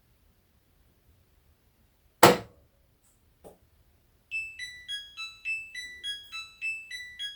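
Midea HealthGuard Smart 13kg washing machine playing its end-of-cycle tune, a short melody of electronic beeps that signals the wash is finished. About two seconds in there is a single sharp thump, then a faint click.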